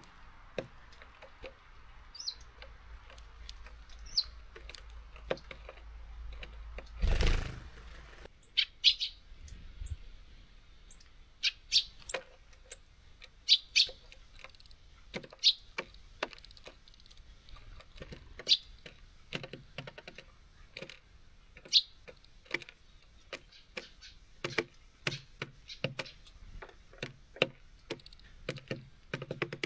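Small songbirds at a garden feeder: short, high chirps every second or two among many sharp taps and clicks of birds on the feeder. A brief, loud rushing burst comes about seven seconds in.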